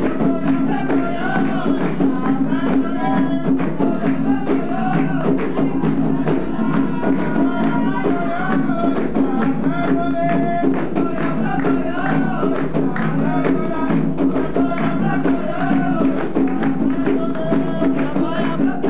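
Umbanda ponto (sacred chant) being sung by a group over a steady beat of hand drums and jingling, shaken percussion.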